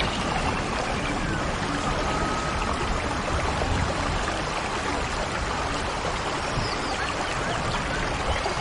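Steady rush of flowing water, with a few faint high chirps over it.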